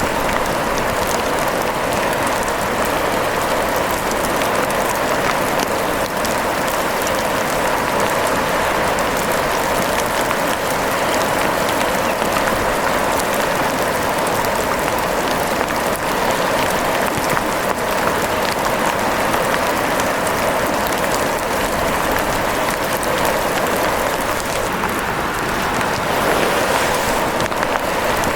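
Steady rain falling: an even, dense patter of drops.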